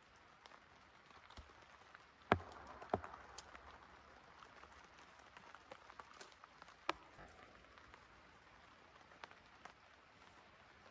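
Rain falling steadily as a faint hiss, with scattered drops tapping sharply. There are two louder knocks about two and three seconds in and another near seven seconds.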